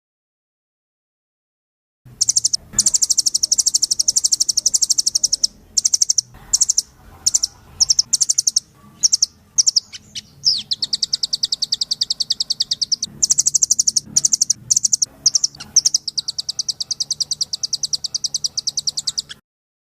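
Rambatan loreng bird singing long, very fast high-pitched trills of rapidly repeated notes, broken by short pauses. The song starts about two seconds in.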